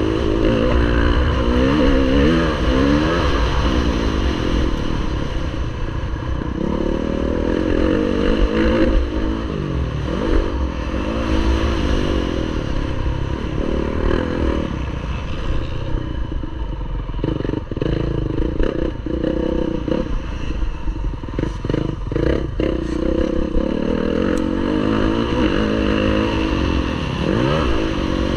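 Motocross bike engine revving up and down over and over, pitch climbing on the throttle and dropping back off it, with a stretch of clattering knocks around the middle.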